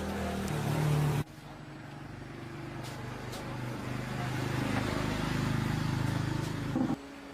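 A motor running with a steady droning hum, broken off abruptly about a second in and again near the end.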